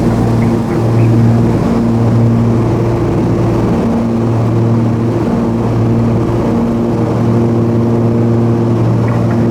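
Twin turbocharged Continental TSIO-520 piston engines and propellers of a Cessna 340A running steadily, with a slow rise-and-fall beat every second or two.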